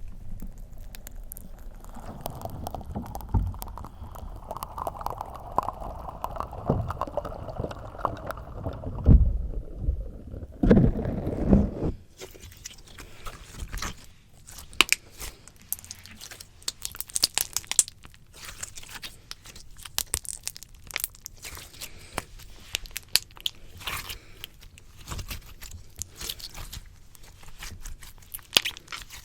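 Slime squished directly on a microphone: for about twelve seconds a muffled, deep squelching with a few thumps, then many sharp sticky pops and crackles.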